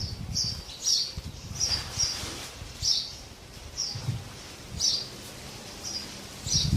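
Sparrows chirping: short, sharp chirps repeated at an uneven pace, roughly one or two a second.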